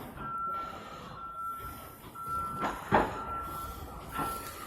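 Electronic beeper in a patrol car sounding a steady single-tone beep over and over, each beep about half a second long and coming about once a second. A couple of knocks cut in, the loudest about three seconds in.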